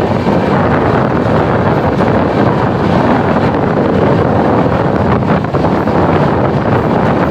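Express passenger train running at about 100 km/h, heard from an open door: steady running noise from the train, with wind buffeting the microphone.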